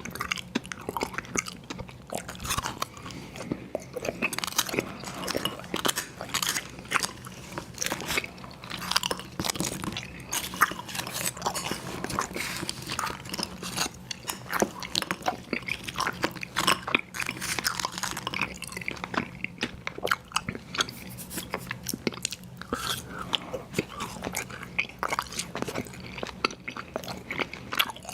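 Close-miked chewing and crunching of sour gummy worms cereal: a dense, continuous run of small crunches and bites.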